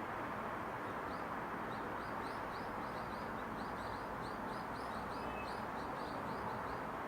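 Steady rushing outdoor background noise in a residential area, with a small bird giving a quick run of high chirps, a few each second, from about a second in until near the end.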